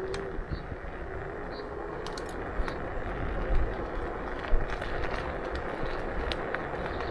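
Riding noise from a KuKirin G2 electric scooter: tyres rolling over city pavement with wind rumbling on the camera microphone, and a couple of sharp knocks from bumps about three and a half and four and a half seconds in.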